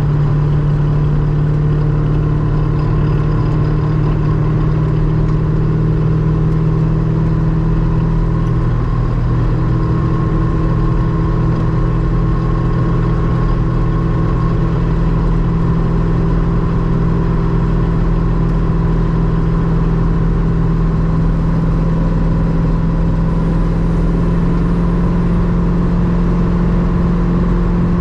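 Ultima RS's LS-series V8 running at a steady road cruise, its drone rising slightly in pitch over the second half.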